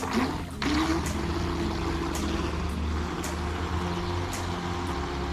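Brushless electric motor of a Pro Boat Blackjack 24 RC catamaran running at a steady pitch, with water noise underneath.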